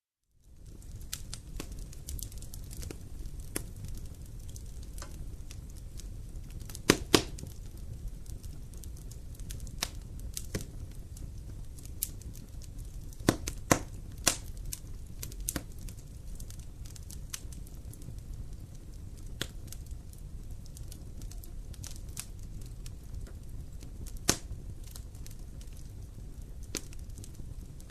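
Wood campfire burning: a steady low rumble of flames with scattered sharp crackles and pops from the burning wood, a few much louder pops standing out. The sound rises out of silence in the first half second.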